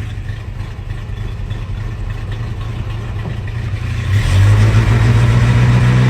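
Old truck's engine running just after a cold start, its oil pressure up. About four seconds in, the revs rise and hold steady at a faster, louder speed.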